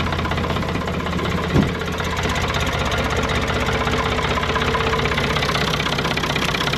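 Small Ford diesel tractor idling steadily just after a cold start on glow plugs, with the typical diesel knock. One brief sharp knock sounds about a second and a half in.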